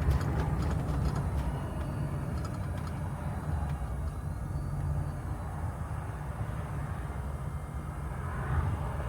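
Steady low rumble of a vehicle's engine and road noise, heard from inside the cab.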